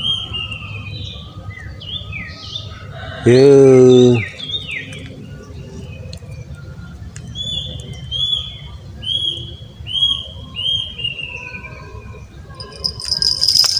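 Small birds chirping repeatedly in short, downward-sliding notes, with a run of about six similar chirps in the second half. About three seconds in, a loud voiced call lasts about a second, and near the end a high rattling hiss begins.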